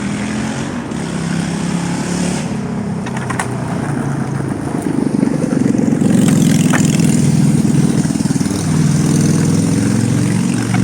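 A motor engine running close by, getting louder about halfway through, with a few sharp clicks.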